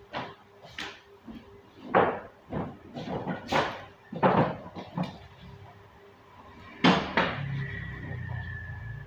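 A series of irregular knocks and bangs, about a dozen over several seconds, the loudest near two, four and seven seconds in, followed by a low rumble near the end.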